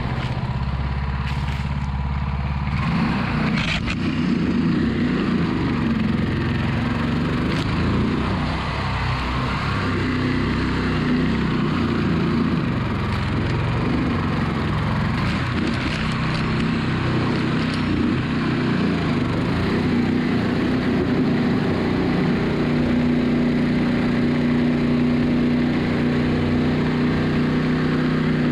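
Small engine of a longtail mud motor running at high throttle, its pitch climbing about three seconds in and then wavering as it drives an 8-inch hurricane prop through thick grass. The owner finds this prop slips, spinning without gripping the water in heavy vegetation.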